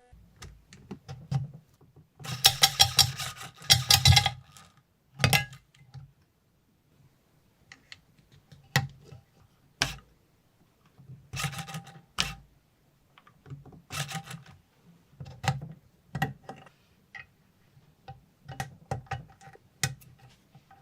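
Irregular clicks, knocks and short rattles of small hard parts being handled during building work, with a dense clatter about two to four seconds in and scattered single clicks after that.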